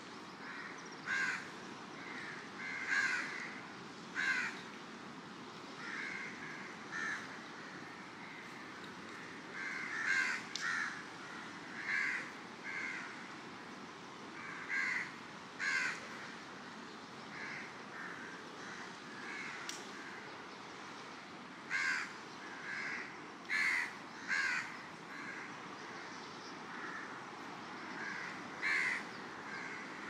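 Birds calling at dawn: short calls, often two or three in quick succession, every second or two over a steady low wash of surf.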